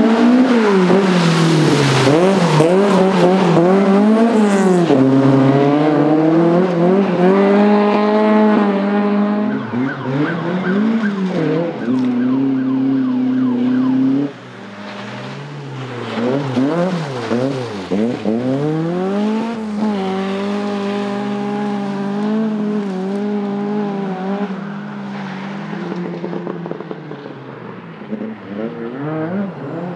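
Rally car engines, the Toyota Starlet's among them, revving hard and repeatedly: the pitch climbs, holds, drops at each lift or gear change, then climbs again. About halfway through the sound drops suddenly to a quieter, more distant engine note that keeps rising and falling.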